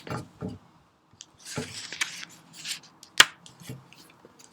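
A paper picture book being handled and its page turned: rustles of paper and light taps, with one sharp click about three seconds in.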